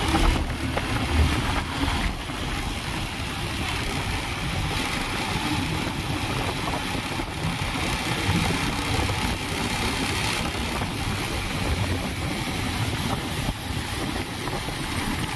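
Steady vehicle and road noise, with a motor engine running low underneath.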